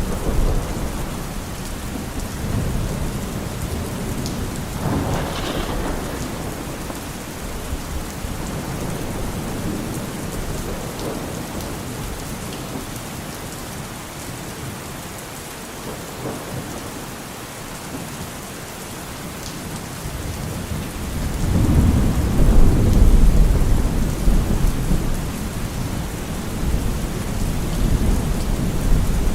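Steady rain with rolling thunder. The thunder fades to a lull through the middle, then a loud, low rumble builds about three quarters of the way in and slowly dies away.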